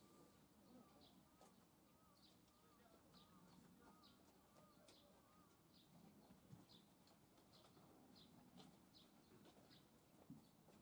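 Near silence with faint bird calls in the background: short high chirps repeating about once or twice a second, and a run of soft warbling notes in the first half.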